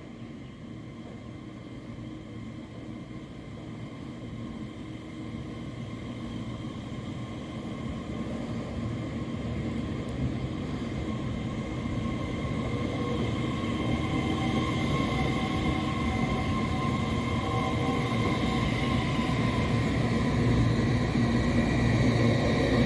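Taiwan Railways EMU3000 electric multiple unit running, growing steadily louder, with a low rumble joined about halfway by a steady whine of several tones that strengthens toward the end.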